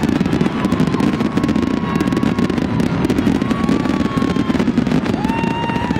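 Fireworks fountains spraying columns of sparks with a steady rush and dense, rapid crackling, with a few high whistling tones over it.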